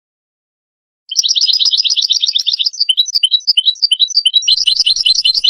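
European goldfinch song, starting about a second in: a fast trill of rapidly repeated notes, then a run of varied, twittering notes.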